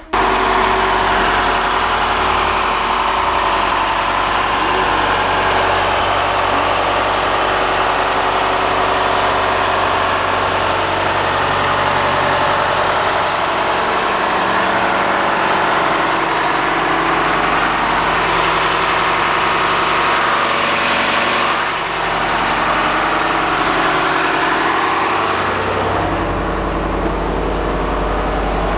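Engine of a Blue Bird CSFE school bus idling steadily. Its low rumble grows stronger near the end.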